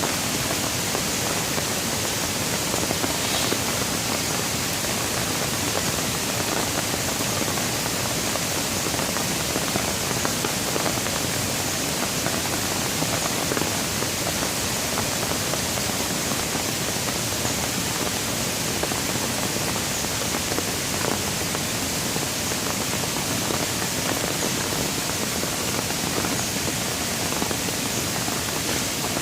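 Rain falling steadily: an even hiss with no pauses or changes.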